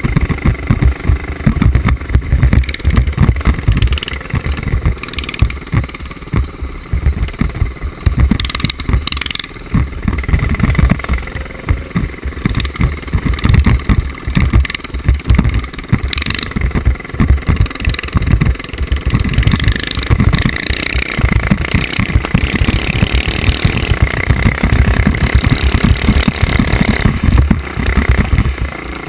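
Small single-cylinder mini bike engines running and revving unevenly while riding off-road, with heavy, uneven rumble on the helmet-mounted camera's microphone.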